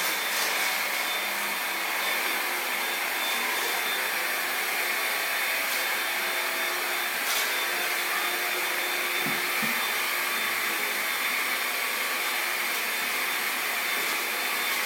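Steady, continuous whooshing noise of a running fan, even in level throughout, with a faint steady whine on top.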